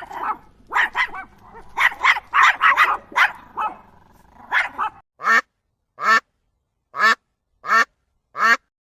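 Young animals calling: a quick string of short, high calls over background noise, then a single clean call repeated five times, about one every 0.8 s.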